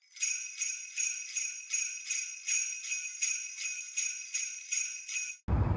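Sleigh bells jingling in a steady, even rhythm of a little under three shakes a second, cutting off suddenly near the end.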